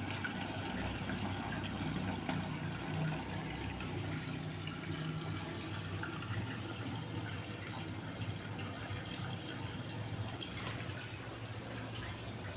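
Water running into and splashing inside a washing machine during a cleaning cycle, over a low steady hum.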